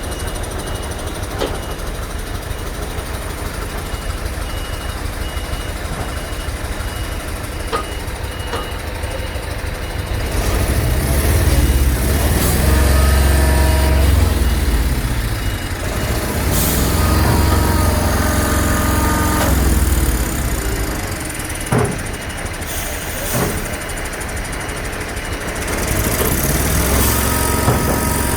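Heavy lorry engines rumbling at idle, then revving up and down several times as they pull away, with short air-brake hisses in between.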